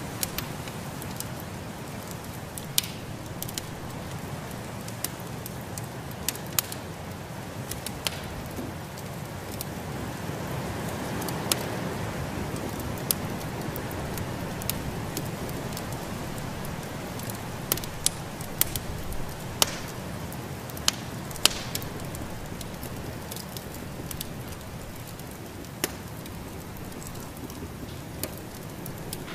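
Wood fire in a fireplace crackling, with sharp irregular pops every second or so, over a steady rushing hiss of snowstorm wind.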